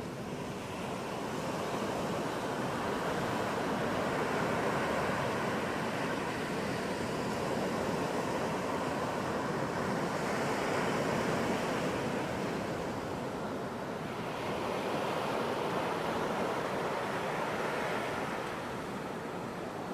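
Ocean surf on a beach: a continuous wash of breaking waves that swells and eases every few seconds.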